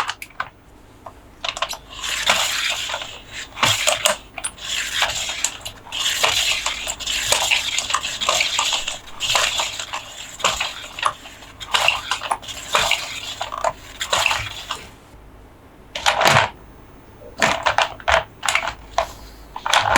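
Plastic toy parts and packaging being handled: a run of small clicks and taps, with rustling through most of the first three quarters and scattered sharp clicks near the end.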